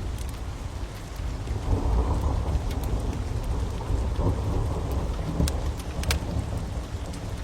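Steady rain with a low thunder rumble that swells about a second and a half in and slowly fades, and a few sharp crackles and pops from a wood fire.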